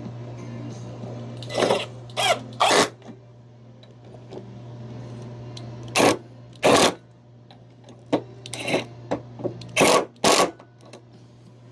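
Power drill driving screws in short bursts: three quick runs, then two, some brief blips, and two more near the end.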